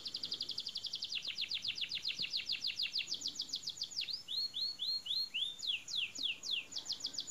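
A small bird singing: a rapid trill of high, quickly falling chirps, about ten a second, that slows into a few separate, longer downward swoops around the middle and then speeds back up into the fast trill.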